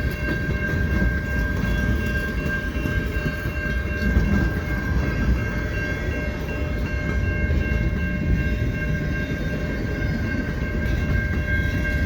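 Empty centre-beam flatcars of a long freight train rolling slowly past, making a steady low rumble with a continuous high-pitched ringing tone over it.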